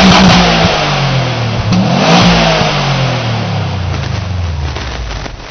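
Subaru WRX STI turbocharged flat-four through a Prodrive aftermarket exhaust, held at high revs and then dropping. A quick rev blip comes about two seconds in, then the revs fall away steadily and the sound fades.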